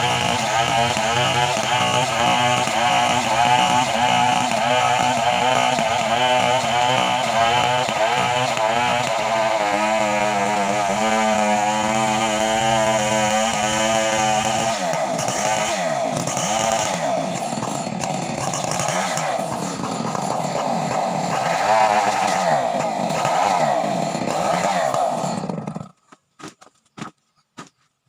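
Two-stroke chainsaw running loud and steady, then its engine pitch wavering up and down through the second half. It cuts off abruptly near the end, followed by a few short clicks.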